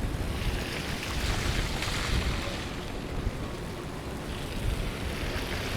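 Vehicles passing on a wet, slushy street, their tyres hissing as they swell up and fade, twice, over a steady low wind rumble on the microphone.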